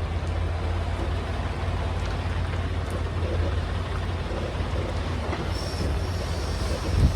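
Semi truck's diesel engine running steadily at low speed while reversing the trailer into a parking spot. Late on, a hiss with a thin high whistle starts, and there is a short low thump near the end.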